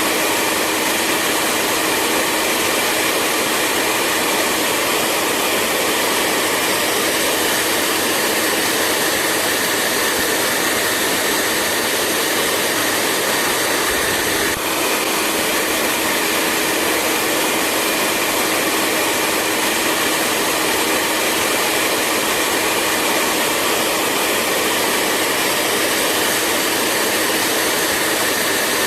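Hair dryer running steadily: an even blowing rush with a steady fan whine over it, with a brief small dip in level about halfway through.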